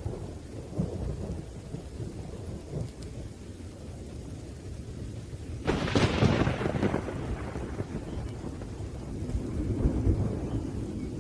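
Thunderstorm: steady rain under low rolling thunder, with a sharp thunderclap a little past the middle that fades back into rumbling. The rumble swells again near the end.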